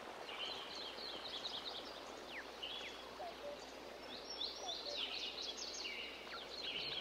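Faint birds chirping and twittering in quick clusters of short notes, with a few downward-sliding calls, over a steady background hiss.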